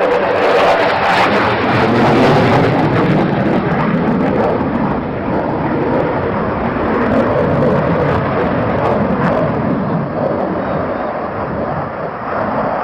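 Aircraft engine noise, loud and continuous, loudest about two seconds in and easing slightly toward the end.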